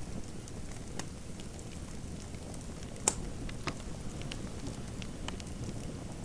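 Fireplace fire crackling: a steady low rumble of flames with scattered sharp pops, the loudest about three seconds in.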